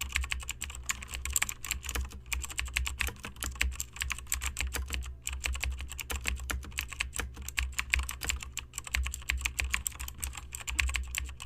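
Rapid, irregular clicking, many clicks a second, over a steady low hum.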